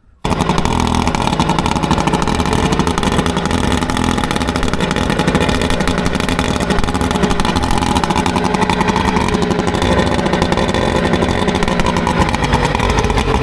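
Outboard motor running steadily, with a slight shift in pitch near the end.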